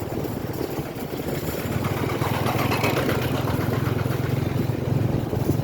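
Motorcycle engine running steadily under way, a pulsing hum that grows a little stronger about a second and a half in.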